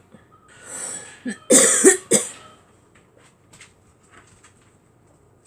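A man coughing: a drawn breath, then two harsh coughs close together about a second and a half in. Faint small clicks follow.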